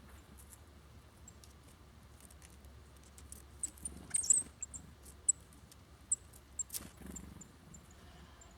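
Small songbirds at a seed feeder giving a scatter of short, very high, thin call notes, mixed with sharp little clicks, busiest in the second half.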